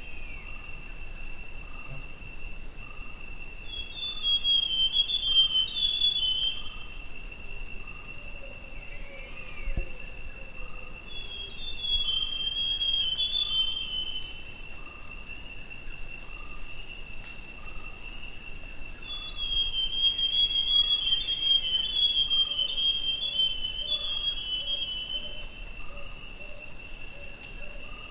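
Forest scrub-robin (buff-brown scrub-robin, Cercotrichas leucosticta) singing three phrases of quick, high warbling notes, beginning about 4, 12 and 19 seconds in, the last one the longest. A steady high insect drone runs beneath.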